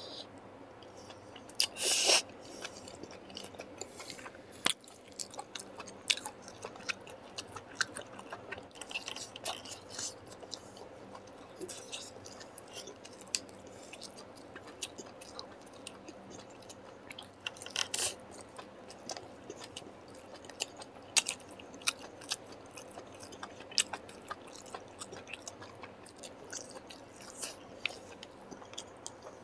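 Close-miked chewing and eating sounds: wet smacking and irregular crunchy clicks of a person eating curry and rice, with a few louder crunches about 2 and 18 seconds in.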